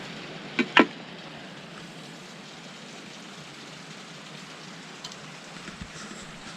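Steady rain falling, with two short sharp sounds close together a little under a second in.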